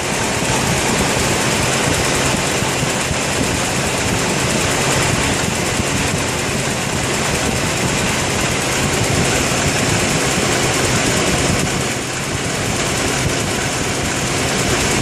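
Ford 200 cubic-inch inline six-cylinder engine idling steadily with a misfire that new plugs, wires, coil, distributor, cap and rotor have not cured; the owner suspects a sticking valve.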